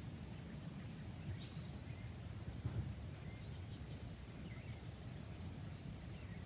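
Outdoor ambience: faint short bird chirps every second or so, thin and high, over a steady low rumble.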